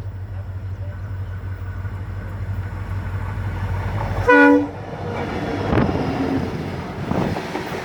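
Passing train: a steady low rumble, then one short horn blast about four seconds in, the loudest sound, followed by wheels rattling over the rails.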